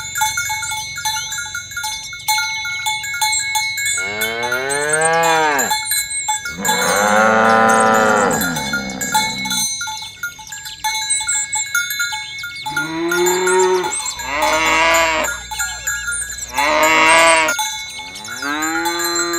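Cattle mooing, about six calls that rise and fall in pitch, the longest drawn out for a few seconds near the middle, over the steady clinking of cowbells.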